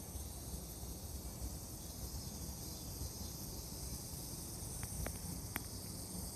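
Faint steady high-pitched insect chorus of summer, with a few soft clicks about five seconds in.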